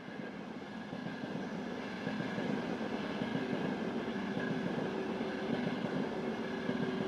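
Train running, a steady rumbling noise that grows slightly louder, with a faint steady whine joining about three and a half seconds in.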